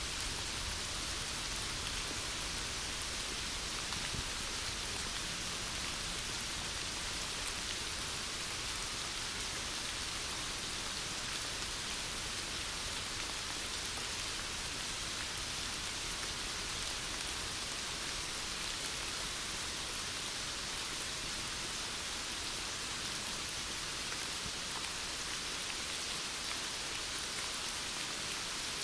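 Heavy rain falling steadily, an even hiss of drops on surfaces with no let-up or change.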